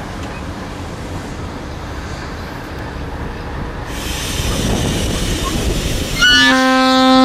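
Freight train wagons rolling past close by, a steady rumble of wheels on rail. About six seconds in, a train horn sounds one loud, steady note.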